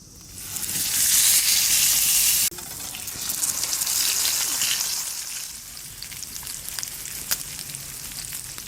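Thick beef steak sizzling on a grill over a wood campfire. The hiss is loudest for the first couple of seconds, then drops abruptly to a quieter sizzle with scattered sharp pops.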